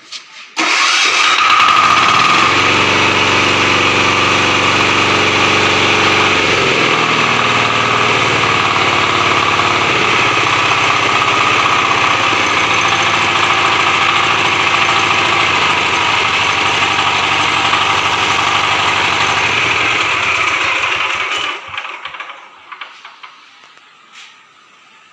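KisanKraft diesel engine started on its electric starter, catching at once and running loud and steady, its note shifting about six seconds in. It shuts off about twenty-one seconds in and runs down quickly.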